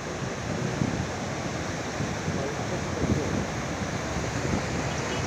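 Steady rushing noise of heavy rain and flowing floodwater.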